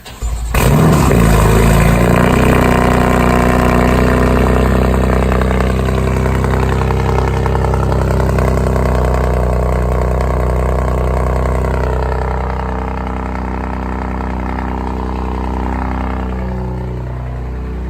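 BMW F80 M3's twin-turbo straight-six starting through a non-resonated AWE track exhaust with catless downpipes: it fires just after the start, flares loudly, then settles to a steady idle that drops a little lower near the end.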